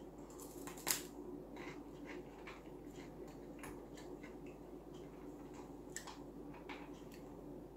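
Faint chewing of a bite of pastry snack: scattered soft crunches over a low steady room hum, with a slightly louder crunch about a second in.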